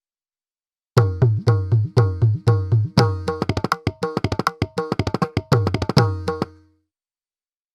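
Sampled Indian hand drum from the SwarPlug 4 VST library playing a short pattern. Evenly spaced strokes with a deep ringing bass come about two a second, then quicken into faster rolls in the middle, and a final bass stroke rings out and fades. The pattern starts about a second in.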